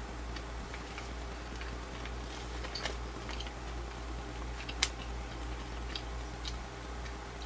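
A person chewing beef jerky with the mouth closed: faint, scattered wet clicks and smacks, with one sharper click about five seconds in, over a steady low hum.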